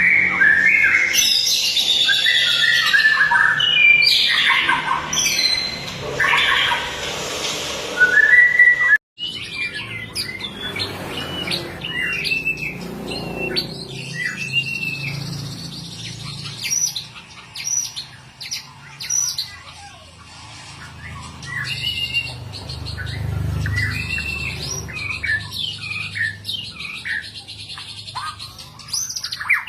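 White-rumped shama (murai batu) singing a fast, varied song of whistles, chirps and harsh notes. About nine seconds in the sound cuts out for a moment. The song then goes on softer, as separate short whistles and chirps.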